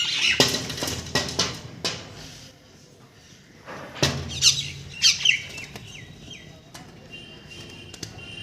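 Pet birds squawking in short bursts of quick falling calls, at the start and again about four to five seconds in, mixed with a few sharp taps and knocks.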